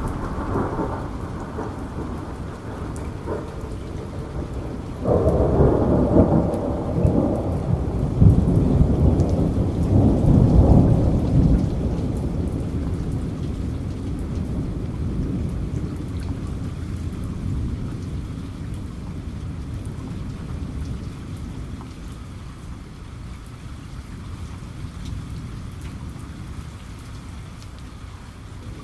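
Steady rain falling, with a long roll of thunder that starts suddenly about five seconds in, swells for several seconds and slowly fades into the rain.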